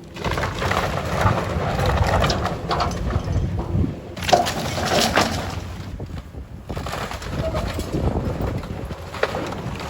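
Demolition of a building: wood and debris cracking, splintering and crashing in a dense, continuous crunching. Sharp cracks come about four seconds in and again near the end.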